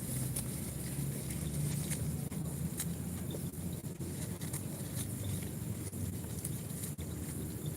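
Goats grazing: irregular small clicks and rustles of plants being torn and chewed, over a low steady rumble.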